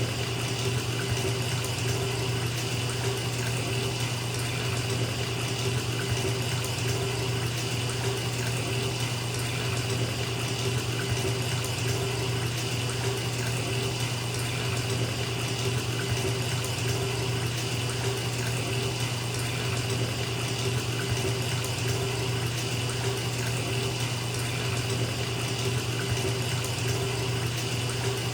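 Water running from a bathtub tap into the filling tub: a steady, unchanging rush of water.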